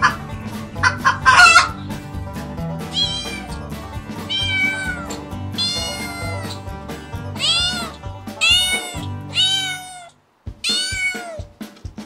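Chickens clucking briefly, then a domestic cat meowing about seven times, each meow a long drawn-out call, over background music.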